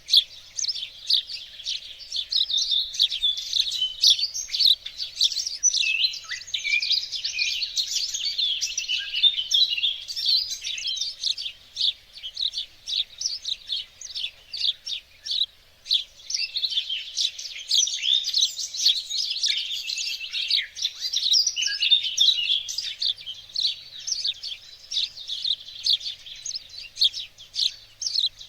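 Many small songbirds singing and chirping at once, a dense overlapping chorus of quick high calls and trills.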